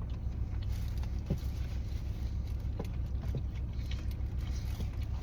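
Steady low rumble of an idling car, with a few faint clicks and rustles over it.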